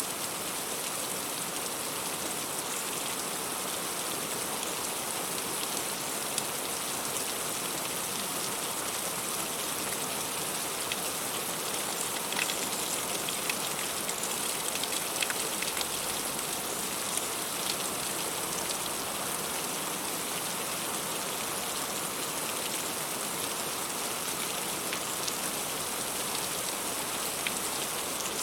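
Heavy, steady rain, a dense even hiss with scattered sharper drop hits, falling on the leaves and fruit of a tree.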